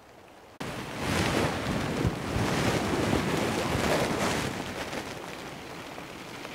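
Strong wind gust blowing hard across the microphone, coming in suddenly just after the start, loudest through the middle, then easing off near the end.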